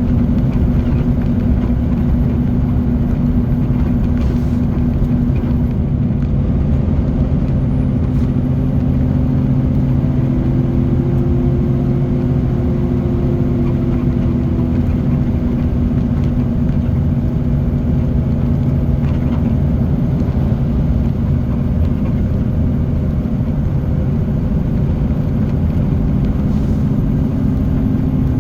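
Heavy diesel truck engine of a loaded triple road train pulling up a long grade, running loud and steady at an even pitch under heavy load.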